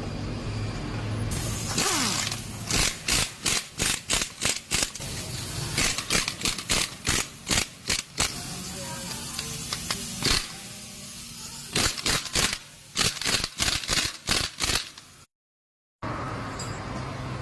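Tools working on a car's electric power steering assembly during disassembly: a series of sharp metallic knocks and clicks, a few per second, in three bursts.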